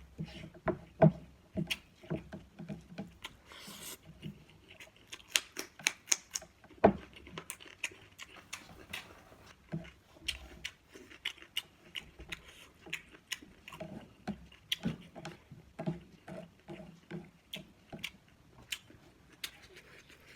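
Close-miked eating: chewing with wet mouth clicks and smacks, many short sharp clicks in quick, irregular runs.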